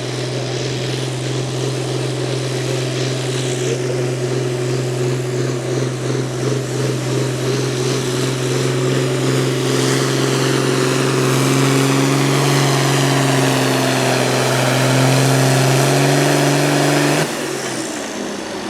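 A pulling vehicle's engine running hard at high revs under load down the track, its pitch creeping up and getting louder. It cuts off suddenly near the end.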